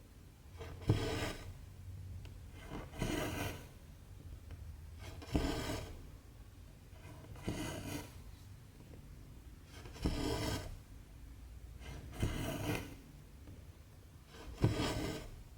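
Cotton embroidery thread drawn through 14-count cross-stitch fabric, a short rasping pull about every two seconds, seven times in all.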